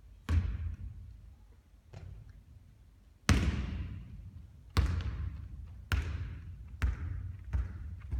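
A basketball hitting the court with sharp, echoing bounces at irregular intervals, about seven in all, the loudest a little over three seconds in.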